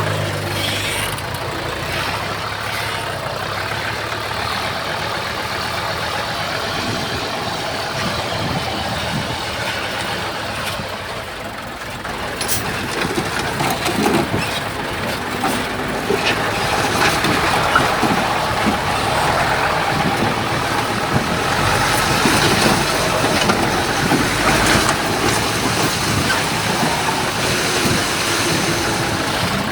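Bulldozer's diesel engine running under load, with irregular clanks and knocks from its tracks and the soil and stone it pushes.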